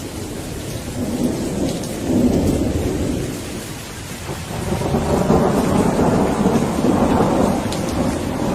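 Rain falling steadily with rolling thunder. The rumble swells about two seconds in, eases, then builds again from about halfway through and stays loud.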